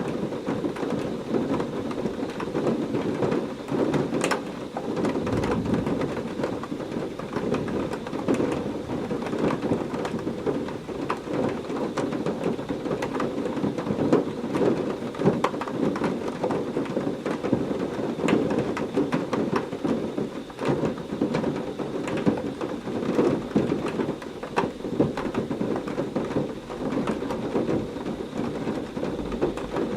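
Heavy rain falling steadily, with scattered sharp drop hits and a deep rumble of thunder mixed in.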